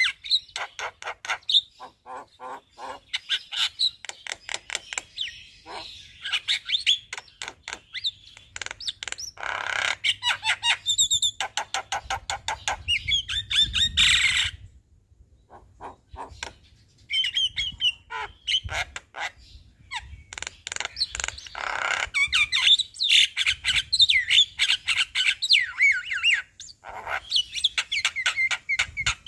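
Javan myna singing in full voice, a fast run of chattering, whistled and harsh notes with a short pause about halfway through.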